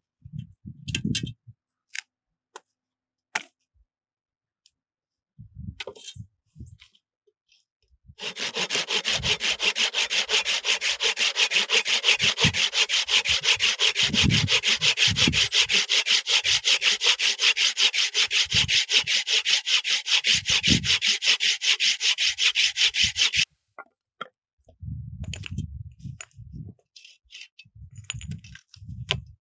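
Hand saw cutting wood in fast, even strokes for about fifteen seconds, with scattered knocks of handling before and after.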